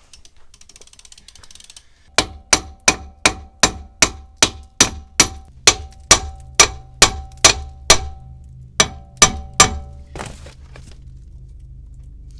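A hammer striking a rusted drum brake assembly again and again: about twenty sharp metal clangs, each ringing briefly, roughly three a second, with one short pause before the last few.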